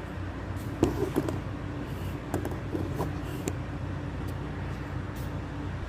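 A vehicle engine idling with a steady low hum, with a few light knocks and clanks about one, two and a half, and three and a half seconds in.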